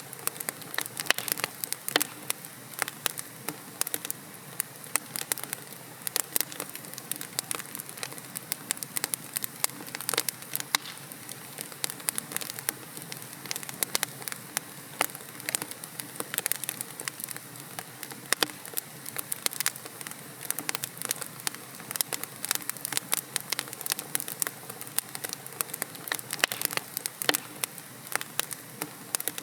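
Logs burning in a fireplace, with dense irregular crackles and pops over a soft steady hiss.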